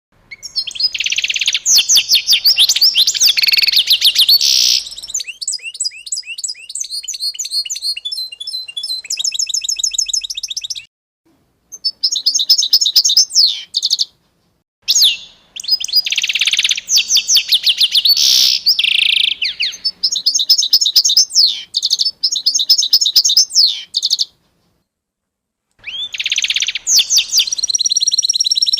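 Songbirds singing in rapid, high chirping trills, with several songs overlapping in the first few seconds. The song stops dead for short silent gaps about 11 s, 14 s and 24 s in, where clips are spliced together.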